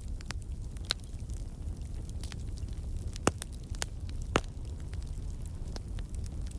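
Campfire crackling, with scattered sharp pops of burning logs, the two loudest about three and four and a half seconds in, over a steady low rumble.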